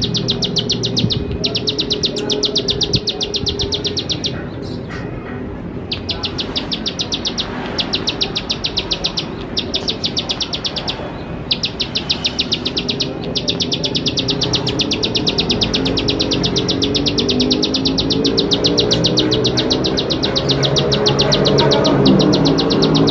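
Ciblek sawah (plain prinia) calling: a very fast, dry clicking trill repeated in long bouts with short breaks. Low pitched musical tones run underneath and grow louder near the end.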